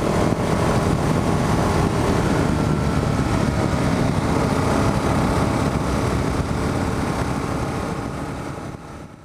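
Kawasaki KLR 650 single-cylinder dual-sport motorcycle riding at a steady pace, its engine mixed with heavy wind rush on the rider's microphone. The sound fades out over the last two seconds.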